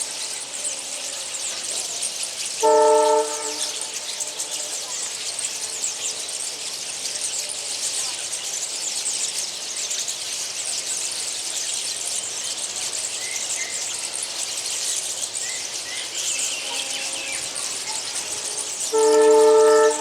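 Two short, loud horn blasts on a steady chord, one about three seconds in and a slightly longer one near the end, over a steady high-pitched chatter with a few faint bird chirps.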